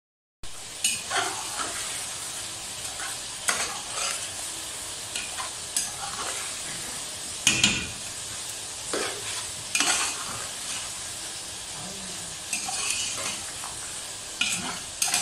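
Chicken korma sizzling in oil in a large cooking pot while a slotted metal spoon stirs it, scraping and clinking against the pot every second or two: the korma is being fried in its oil.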